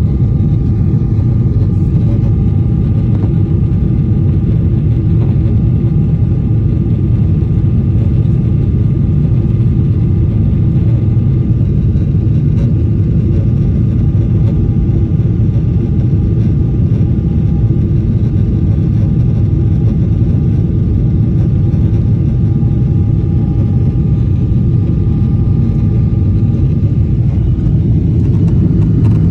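Jet airliner's engines and airflow heard inside the passenger cabin: a loud, steady rumble with a faint steady whine that fades out near the end.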